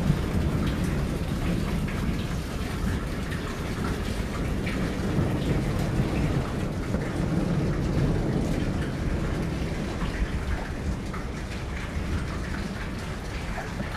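Steady heavy rain falling in a thunderstorm, with many close drops ticking sharply and a continuous low rumble underneath.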